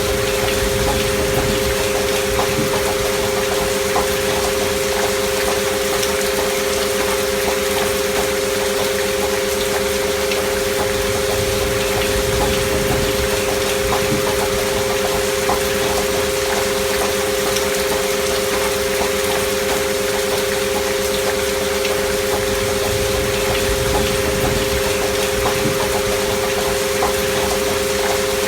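Steady gentle rain with scattered small drop ticks, under two steady pure tones held unchanged, a binaural-beat healing-frequency track.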